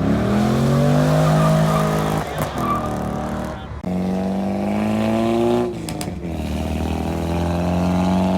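Car engine accelerating hard in repeated pulls, its pitch climbing and then holding, with breaks between pulls like gear changes.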